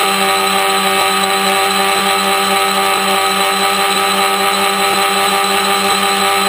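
Electric motors and propellers of a DIY tricopter buzzing steadily in flight: several steady tones over a hiss, the low tone pulsing several times a second.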